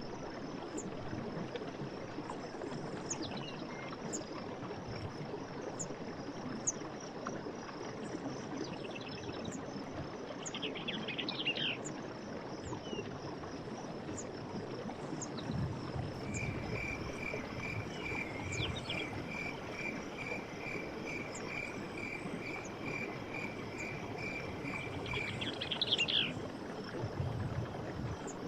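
Night forest ambience: insects chirring steadily over a low rushing background. About halfway through, an animal starts a long run of evenly spaced piping notes, about two or three a second, lasting several seconds. A few short falling chirps come in now and then.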